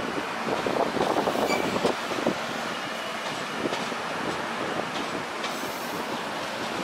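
Mangala Lakshadweep Express passenger coaches rolling past, their wheels clattering over rail joints. The clatter is busiest in the first two seconds, then settles into a steadier rolling rumble with occasional clicks.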